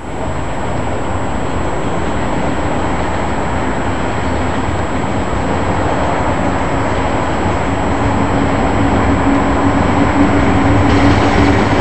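Goods train hauled by an NZ EF class electric locomotive approaching: a steady rumble that slowly grows louder. A humming tone comes in a couple of seconds in and grows stronger toward the end.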